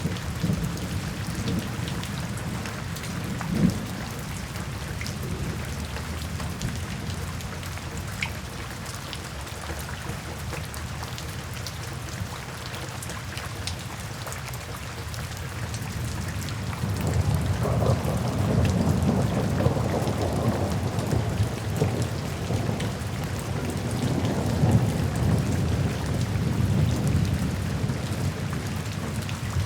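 Steady rain falling into puddles and standing water. Past the halfway point a long roll of thunder rumbles in and carries on over the rain.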